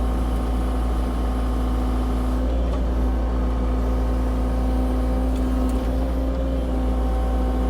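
CAT 304 E2 mini excavator's diesel engine running steadily while the bucket teeth are raked through undergrowth, with a few faint brief scrapes in the middle.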